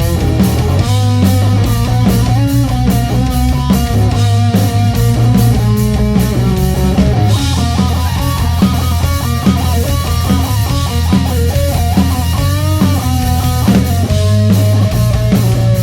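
Live rock band playing loud: distorted electric guitars with a moving lead line over bass and a drum kit keeping a steady beat.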